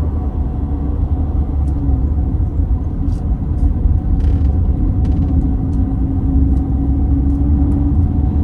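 Motorhome under way on a winding mountain road: steady low engine and road rumble with a constant hum, and faint rattles and clicks now and then.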